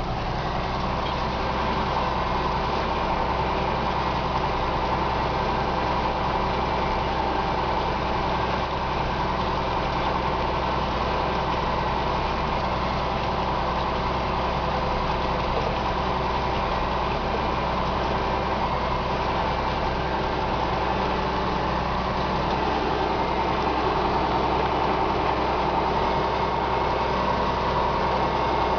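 John Deere 6610 tractor's diesel engine running steadily while ploughing, growing a little louder in the last few seconds.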